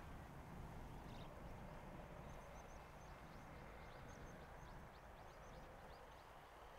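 Near silence of quiet countryside, with a small bird calling faintly: a quick run of short, high notes, each falling in pitch, over about three seconds.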